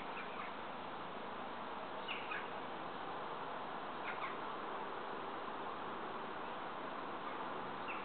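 Garden birds giving short, falling chirps every couple of seconds over a steady background hiss.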